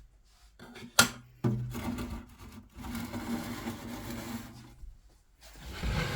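Handling noise: a sharp knock about a second in and a lighter one just after, then a few seconds of rubbing and scraping, with a low rumble near the end.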